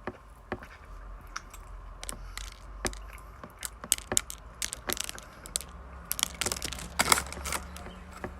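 Close-miked chewing of a sticky, sesame-coated mochi rice cake ball: irregular wet mouth clicks and smacks with small crunches of toasted sesame seeds, coming thickest about seven seconds in.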